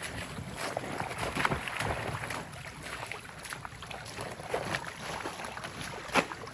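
Irregular boot footsteps through snow and shallow water over the steady rush of a stream.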